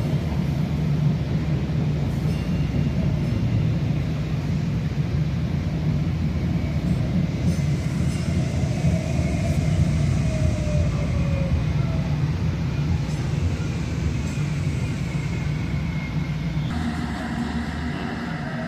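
Light rail train running with a steady low rumble and faint gliding whines. Near the end the rumble thins out and the sound changes.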